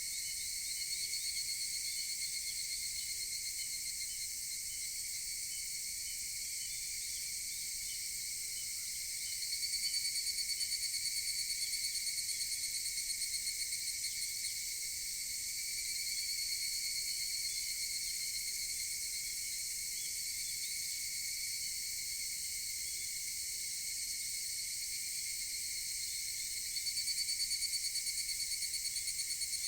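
Higurashi (evening cicadas) calling in chorus: a steady high ringing drone, with fast-pulsing calls swelling up about ten seconds in and again near the end.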